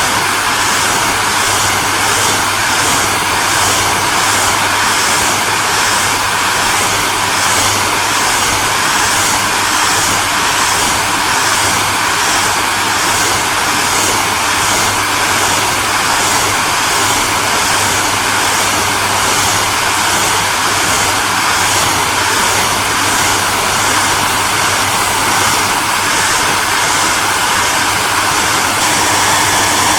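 Hair dryer running steadily: an even rush of blowing air over a low motor hum, unchanging throughout.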